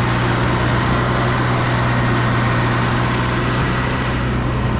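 Heavy diesel truck engine running steadily at a constant speed with a deep, even hum, typical of a concrete truck on a pour site.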